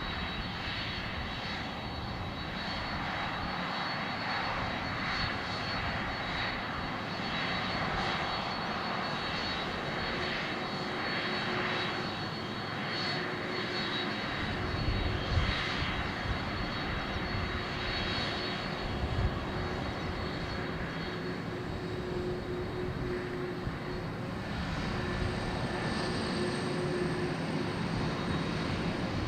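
Jet airliner's turbofan engines at takeoff thrust, a steady rushing noise with a high fan whine running through it.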